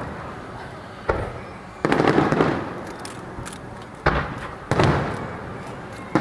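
Aerial fireworks shells bursting overhead: four loud booms in two pairs, about three seconds apart, each trailing off with crackling.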